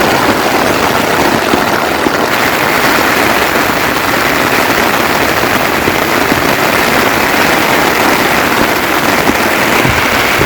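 Heavy, steady rain, a dense, even hiss of countless drops.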